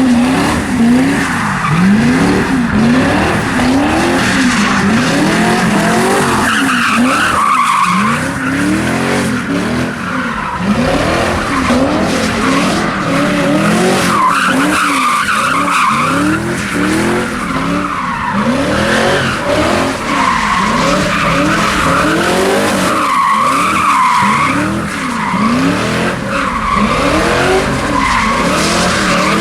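A car doing donuts: the engine revs up and down about once a second while the rear tires squeal and skid continuously.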